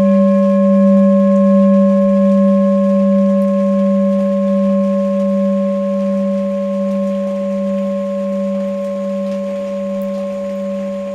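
Tibetan singing bowl ringing after a single strike, a low hum with a few higher overtones that wavers gently and slowly fades.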